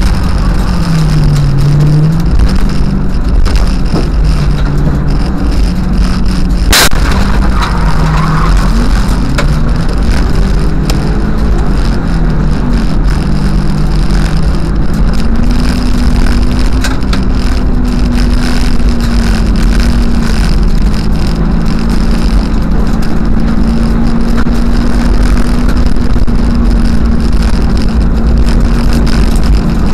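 Car engine running at low speed, its pitch rising and falling and then holding steady, over a heavy rumble, heard from inside the car's cabin. A single sharp click comes about seven seconds in.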